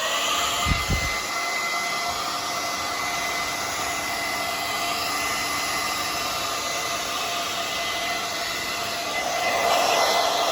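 Hair dryer switched on and running steadily, a rush of air with a thin high whine, blowing a wet parrot dry. A couple of low thumps come about a second in, and it gets a little louder near the end.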